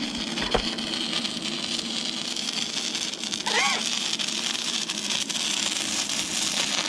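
Stick-welding arc from an inverter arc welder burning a 6011 rod on thin, rusty, painted steel: a steady crackling sizzle that stops abruptly at the end as the arc is broken.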